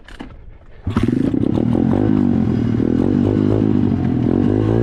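SSR 125 dirt bike's single-cylinder four-stroke engine comes in suddenly about a second in and keeps running loudly, its pitch wavering up and down with the throttle.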